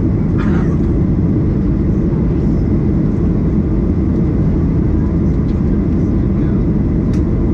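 Steady rumble of a Boeing 737 airliner's jet engines and airflow, heard from inside the passenger cabin. The noise is even, deep and constant throughout.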